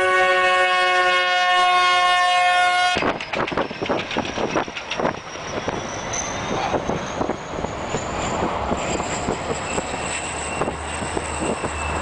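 Locomotive air horn sounding a steady multi-note chord, cut off abruptly about three seconds in. Then a snow plow train bursts through deep drifts: dense crackling and knocking of snow and ice chunks being thrown, over a low rumble from the train.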